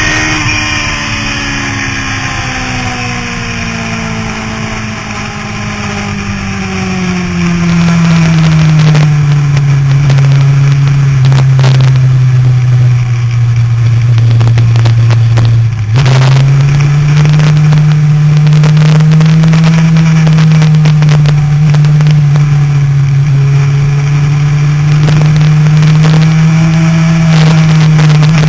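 Motorcycle engine running on a track lap, heard from an onboard camera. Its pitch falls and it is quieter for the first several seconds, then it turns loud and holds a fairly steady note, with a brief break about halfway through.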